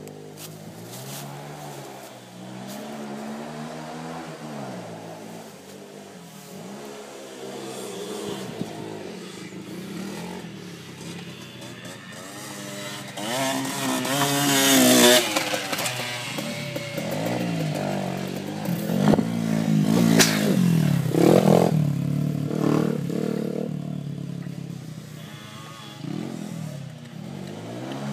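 Small single-cylinder pit bike engine revving up and falling back again and again as it is ridden round a track. It is loudest about halfway through and again about two-thirds through.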